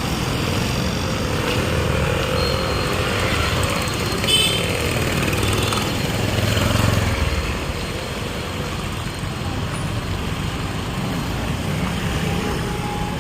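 Street traffic: engines of passing vehicles over steady road noise, with a brief sharp high-pitched sound about four seconds in.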